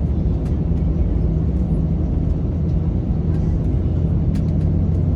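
Steady low drone inside the cabin of an Airbus A321 on the ground, the engines running at low power with a constant low hum and a few faint clicks.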